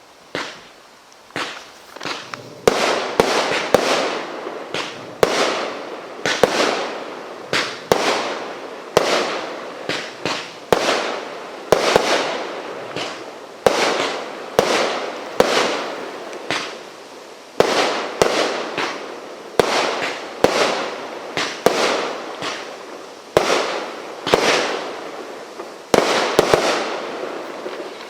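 Consumer fireworks firing in a barrage: a run of sharp bangs, roughly one a second, each trailing off in a short echo, starting about half a second in and stopping near the end.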